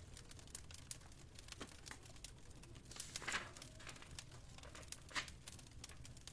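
Fireplace fire crackling, with scattered small pops over a faint low hum, a louder crackle about three seconds in and a sharp pop about five seconds in.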